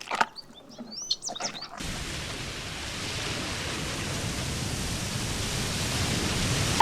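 A few short, high chirps, then a steady, even rushing noise that starts suddenly, slowly grows louder and cuts off abruptly at the end.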